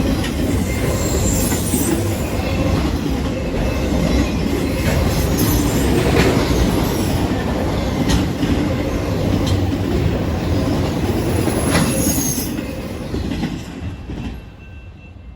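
BNSF autorack freight train rolling past at speed: a steady rumble of wheels on rail with scattered sharp clicks from the rail joints and brief high-pitched wheel squeals, the sound dropping off near the end.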